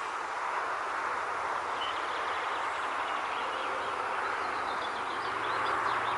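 Steady wind rustling through foliage, with faint high chirping calls from about two seconds in.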